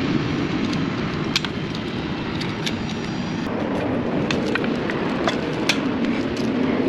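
Steady low rumble of running machinery, with scattered light clicks and taps from hand tools working on the hose fittings.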